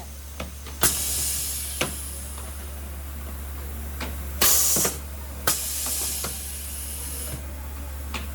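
Short bursts of hissing, the loudest about halfway through, with a few sharp clicks over a steady low hum.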